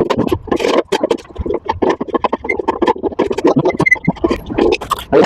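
Irregular metal scraping and clattering of tools and parts as the spider and shaft assembly is worked on the washing machine's drum.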